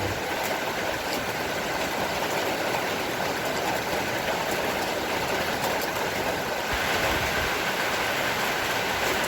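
Heavy rain falling steadily, an even rushing noise with no break.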